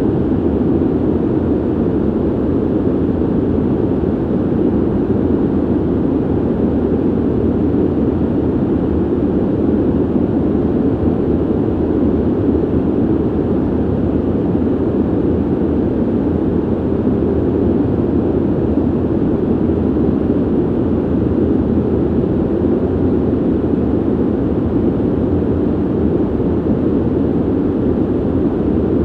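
Ventilation system noise: a steady, even rush of air, deep and muffled, with no change throughout.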